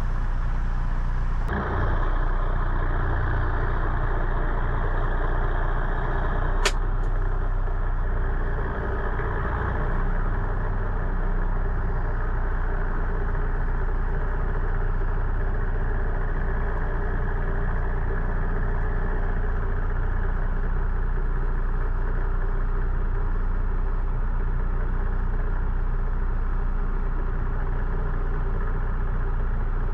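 Diesel semi-truck engine running steadily, with one sharp click about 7 seconds in.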